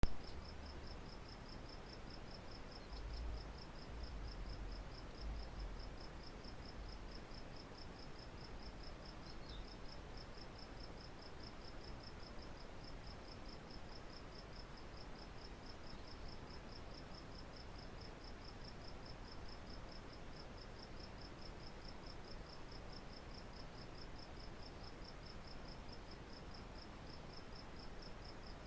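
Cricket chirping at a steady, even rhythm, a high thin pulse repeating without a break. A low rumble comes in briefly about three to six seconds in.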